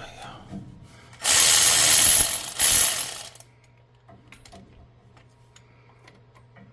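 Socket ratchet clicking rapidly for about two seconds while a spark plug is backed out of the cylinder head, then a few faint clicks of the tools being handled.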